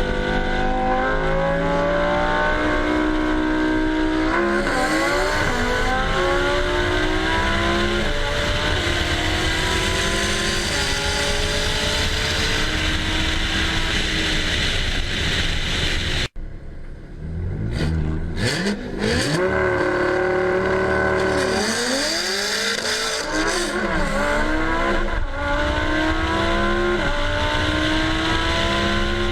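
Chevrolet Corvette C7's V8 exhaust under hard acceleration, the engine note climbing and dropping back at each upshift as it pulls through the gears. The sound cuts off abruptly about halfway through, then resumes with more revving and rising and falling engine notes.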